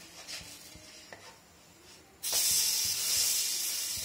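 A besan-battered bread slice frying on a hot buttered tawa: a few soft taps of a wooden spatula, then about two seconds in a sudden loud sizzle starts and holds as the flipped, buttered side meets the pan.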